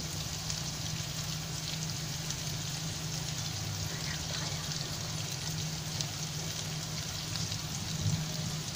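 Chili sambal paste frying in oil in a pan, cooked down until the chilies are dry: a steady sizzle with fine crackles. A steady low hum runs underneath.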